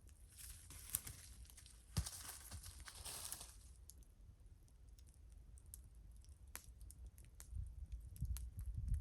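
Wood fire crackling with scattered sharp pops, and a rustling hiss over the first few seconds.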